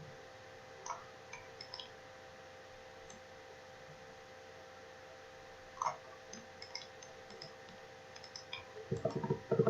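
Computer mouse clicking: scattered single and double clicks over a faint steady electrical hum, then a fast run of ticks near the end.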